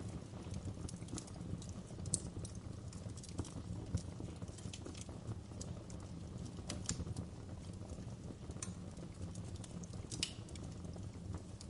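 Fireplace fire crackling: a steady low rumble of flames with irregular sharp pops and snaps, a few a second.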